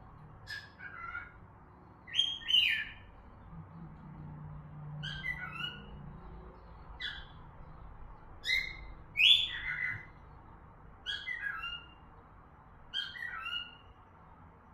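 Pet cockatiels whistling: about eight short calls, each a quick pair of falling notes, every one to two seconds.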